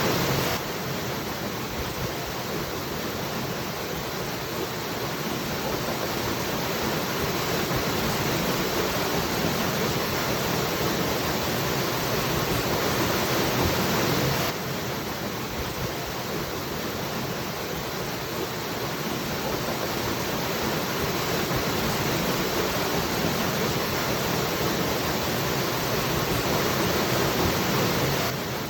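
Waterfall with a steady, even rush of falling water. The level drops abruptly twice, about 14 seconds apart, and slowly builds back up after each drop.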